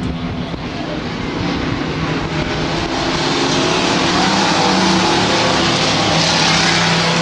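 Stock race trucks running at speed on a dirt track, several engines at once, getting louder over the first few seconds and then holding.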